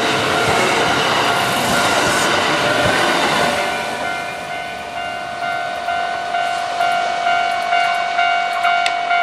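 Kintetsu electric train passing over a level crossing, its rumble fading about three and a half seconds in. The Japanese crossing's warning bell is left clanging about twice a second.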